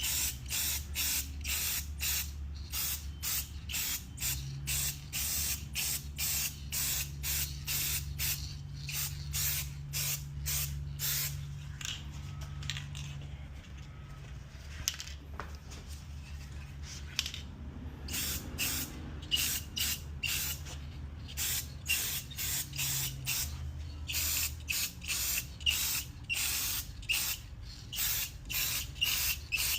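Aerosol spray-paint can hissing in short bursts, about two a second, with a quieter pause near the middle.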